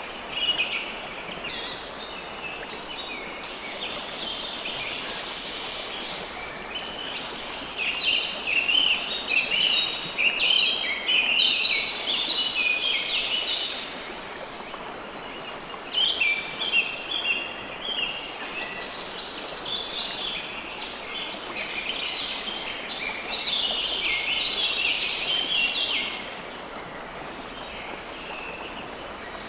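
River water flowing steadily, with several birds chirping over it in quick, overlapping high notes. The birdsong is busiest in two long spells through the middle.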